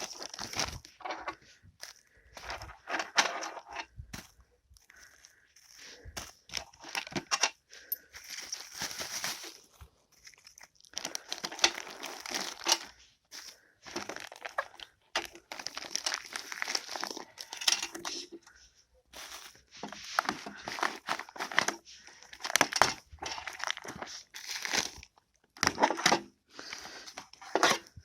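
Irregular crinkling and rustling in short bouts, with scattered clicks.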